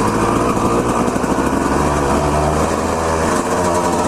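Two-stroke dirt bike engine running at low, fairly steady revs, its pitch wavering only slightly.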